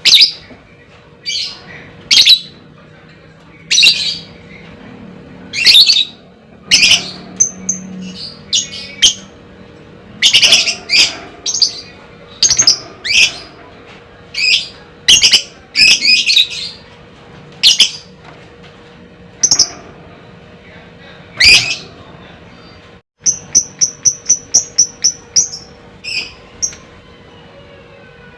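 Lovebird calling loudly, with sharp shrieks every second or two. Near the end comes a fast chattering run of about ten short chirps, roughly four a second.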